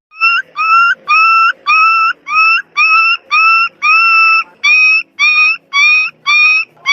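A whistle-like sound effect: about a dozen short, high, squeaky notes, each sliding slightly upward, repeated about twice a second, with one longer note about four seconds in.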